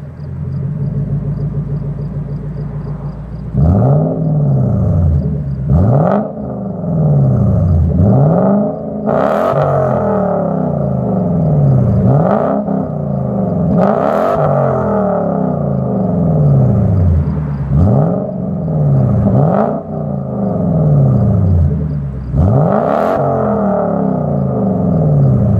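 The 4.0-litre V8 of a 1999 Lexus LS400, straight-piped from the catalytic converters back with mufflers and resonator deleted, idles, then is revved in about eight quick throttle blips. Each blip rises and falls back toward idle.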